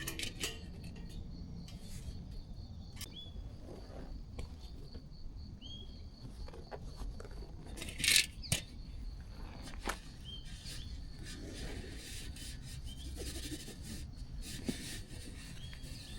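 Insects trilling steadily in a high pulsing tone, with a short rising chirp repeating every two to three seconds, scattered light clicks, and one sharp crack about halfway through.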